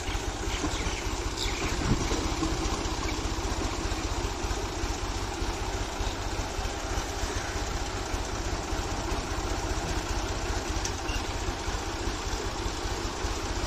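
Tractor engine running steadily at a low, even speed, with a rapid regular firing pulse, while driving a tubewell pump off its tyre. There is a brief knock about two seconds in.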